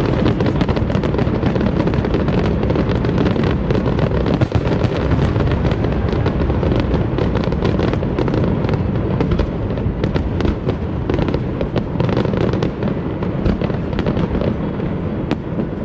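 Aerial fireworks display: a dense, continuous run of shell bursts, with booms and crackling sparks overlapping without a break, easing slightly near the end.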